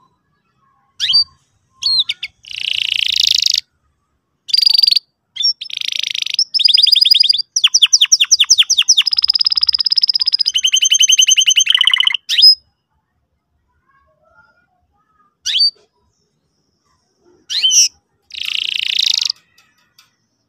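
Domestic canary singing in separate phrases with silent gaps: short sharp chirps, buzzy rolls, and a long fast trill of rapidly repeated notes in the middle.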